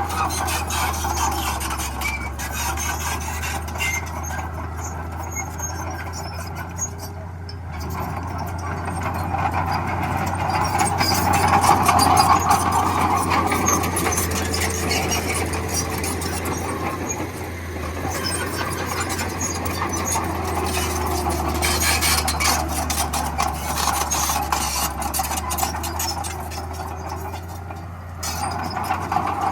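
Bulldozer at work: a steady diesel engine drone with the rattling and clanking of its tracks, swelling louder about twelve seconds in and again later.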